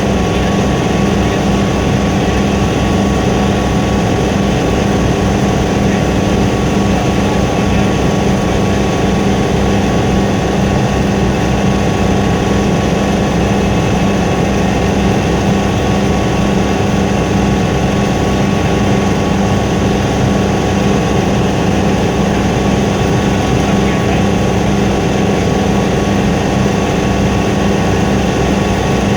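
Helicopter in flight: a loud, steady drone of its engine and rotor, with no change in pitch.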